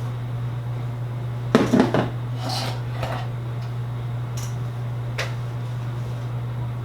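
Hard objects clattering as they are handled and set down on a hard surface, a cluster of knocks about a second and a half in and a few lighter clicks after, over a steady low hum.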